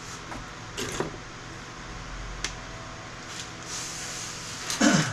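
Scattered light clicks and knocks of scrap circuit boards and small components being handled on a workbench. Near the end comes a louder clatter as a pile of circuit boards is knocked over.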